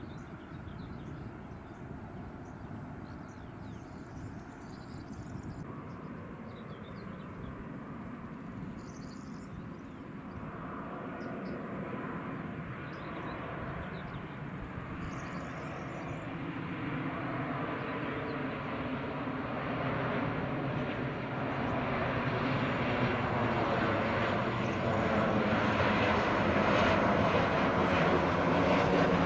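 Jet airliner's engines drawing steadily nearer, the noise growing louder throughout.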